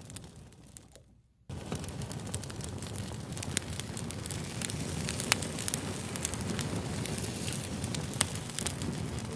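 Fire crackling: a steady low rumble of flames with frequent sharp pops and snaps. It fades out over the first second and a half, then cuts back in suddenly.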